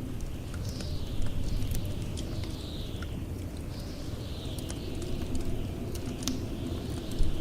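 Blizzard wind with a steady low rumble and high whistling gusts that fall in pitch one after another, mixed with the sharp pops and crackles of a wood fire burning in a fireplace.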